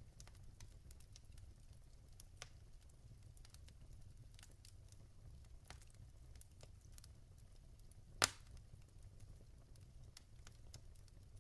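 Wood fire in a fireplace with logs burning: quiet irregular crackling over a low steady rumble, with one sharp loud pop about eight seconds in.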